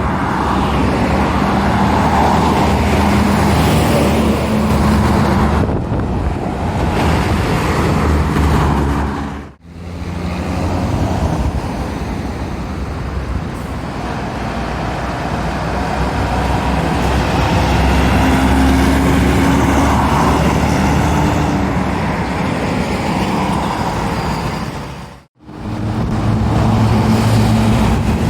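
Heavy diesel lorries and other road traffic passing, with a steady engine drone over tyre and road noise. The sound drops out briefly twice, about a third of the way in and near the end.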